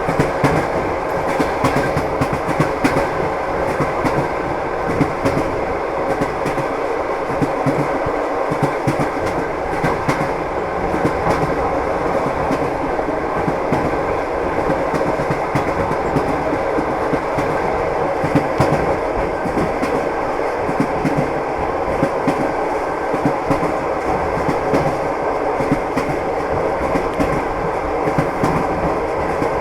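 Train wheels clattering over the rail joints as the train rolls along at a steady speed, a constant rumble with irregular knocks.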